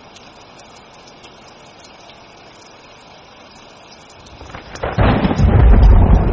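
Steady rain hissing, then thunder rolling in about four and a half seconds in and breaking into a loud, deep rumble about a second later.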